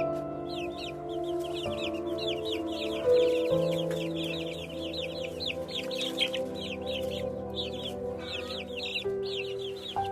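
Many small birds chirping rapidly, a dense run of short high calls, each falling in pitch, over background music with long held notes.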